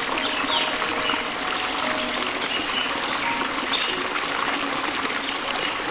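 Steady rushing noise like running water, with short high chirps sliding downward now and then.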